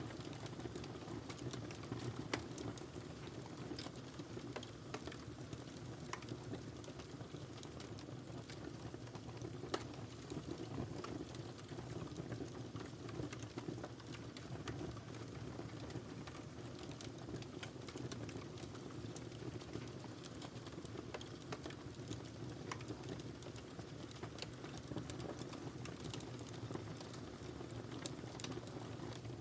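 Wood fire in a fireplace crackling, with irregular sharp pops and snaps over a steady low rumble of the flames; two louder pops about two and a half and ten seconds in.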